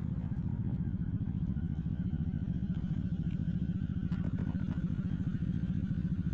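Motorcycle engine running steadily with a fast, even low pulse, a few faint clicks about four seconds in.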